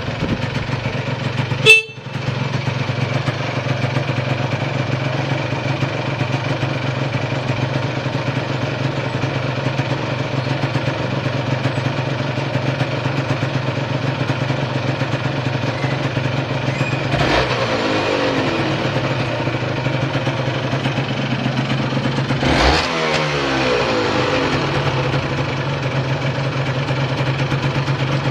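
A Honda NS125R's single-cylinder two-stroke engine idles steadily, and the owner presents the idle as stable with no abnormal noise. A single sharp click comes about two seconds in, and the engine is blipped briefly twice in the second half.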